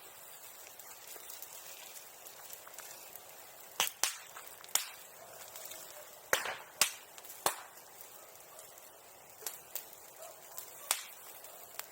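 Bonfire of burning wood crackling, with about ten sharp pops and snaps over a steady hiss, the loudest cluster from about four to eight seconds in.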